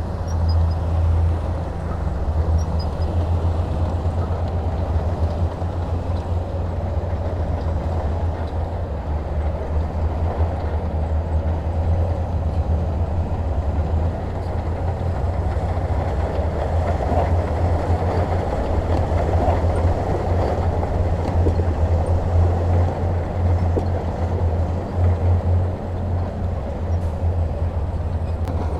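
Heavy diesel machinery running steadily: a deep, constant engine rumble with a rough clatter over it, growing a little louder about halfway through.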